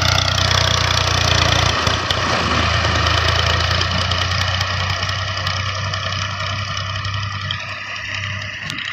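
Millat Massey Ferguson 240 tractor's three-cylinder diesel engine running steadily, growing gradually quieter over the stretch.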